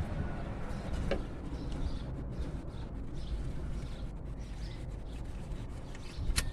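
Low steady background rumble with a sharp click about a second in and a few faint ticks after it, from a small ratchet backing out the 14 mm top bolt of a Honda Civic's alternator mount.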